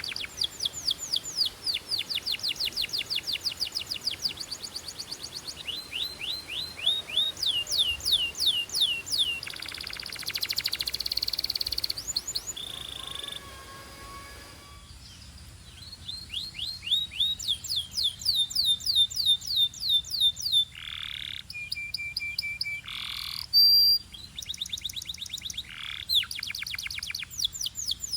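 Domestic canary singing: rapid trills of fast down-sweeping high notes, broken by a buzzy phrase and a few held whistled notes.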